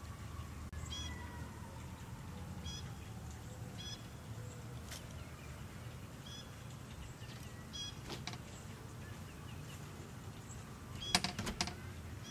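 Birds chirping outdoors, short repeated calls about every second or so, over a steady low rumble. Near the end there is a quick rattle of sharp clicks, the loudest sound, as the house's front door is opened.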